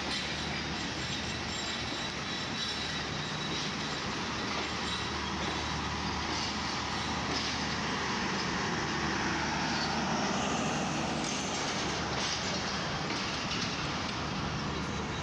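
Passenger train coaches rolling past close by as the train pulls out of the station: a steady rumble of wheels on the rails that swells a little midway.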